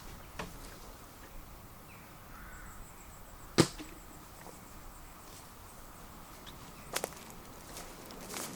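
A few sharp knocks against a quiet outdoor background: one loud one about three and a half seconds in, a quick double knock near seven seconds, and lighter ones at the start and end.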